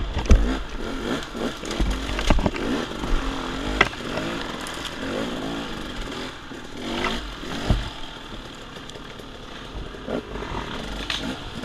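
Dirt bike engine being ridden off-road, its revs rising and falling again and again. Several sharp knocks and some clatter come through along the way.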